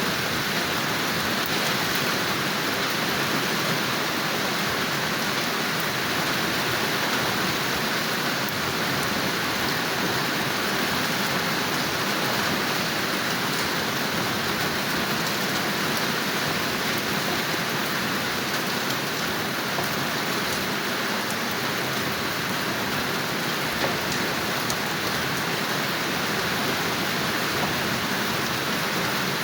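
Steady rain falling, with a few faint drop ticks now and then.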